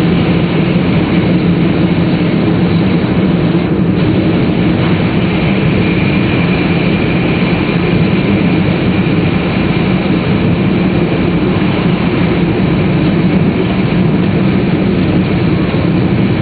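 Steady running noise inside a Tohoku Shinkansen Hayate bullet-train car at speed: an even low rumble with a faint high hum of the traction motors above it.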